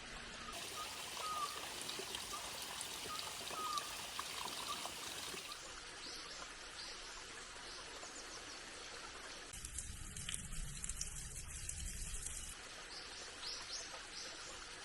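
Small stream of water trickling steadily, with occasional short bird chirps over it; a louder, lower rush of water or wind comes in for a couple of seconds near the end.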